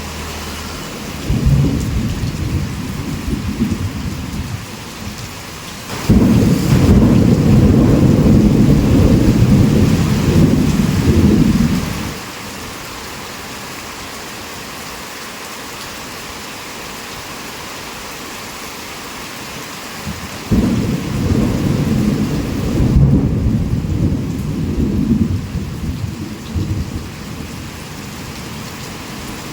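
Heavy rain falling steadily, with three rolls of low rumbling thunder. A moderate one comes near the start, the loudest breaks in suddenly a few seconds later and rumbles for about six seconds, and another rolls in past the middle.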